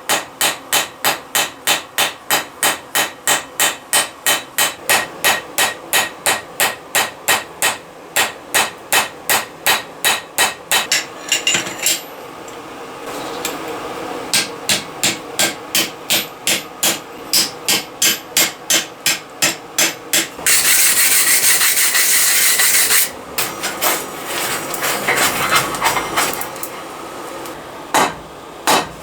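Hammer blows on hot steel at the anvil in steady runs of about three strikes a second, with a pause around eleven seconds in before the hammering resumes. About twenty seconds in comes a harsh scraping noise lasting two to three seconds, followed by irregular strikes and scraping.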